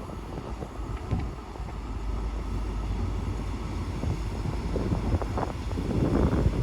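Wind buffeting the microphone over a steady low rumble, with stronger gusts about five seconds in.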